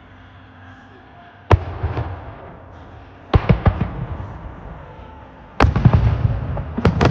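Aerial fireworks shells bursting: a first sharp bang about a second and a half in, then a quick cluster of bangs, then another heavy bang followed by rapid crackling and more bangs near the end. Each report trails off in a long echo, as the sound carries around the mountains that surround the lake.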